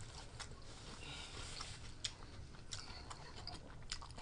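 Faint chewing: a person chewing food close to the microphone, with soft, irregular mouth clicks and smacks.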